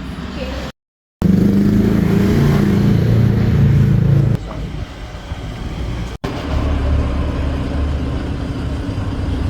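Motor vehicle engine running steadily, heard across several short clips joined by abrupt cuts, with a moment of dead silence about a second in. The loudest stretch follows that gap.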